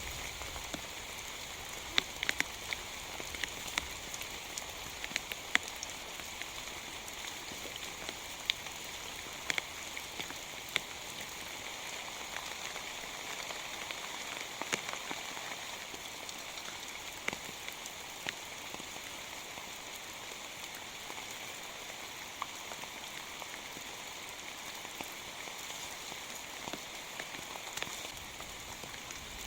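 Steady rain falling, a constant hiss with heavy drops striking a surface in sharp, irregular ticks.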